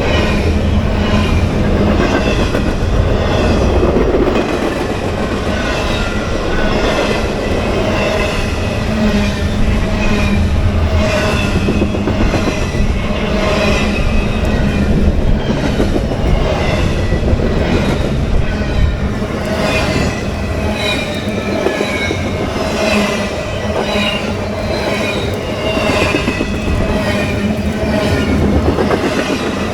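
Freight train cars rolling past close by, steel wheels clicking over rail joints in a steady run of knocks. Wheel squeal comes and goes over the top of the rumble.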